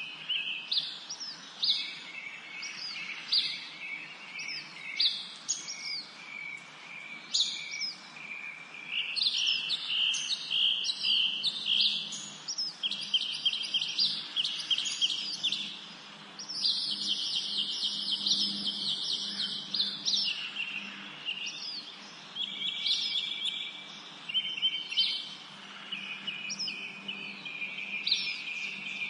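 Several songbirds singing and chirping together in a spring forest chorus: short high whistled notes and rapid trills overlapping, busiest in the middle.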